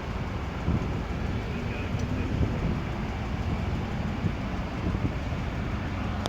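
Steady low rumble of a passing vehicle, with no clear separate events.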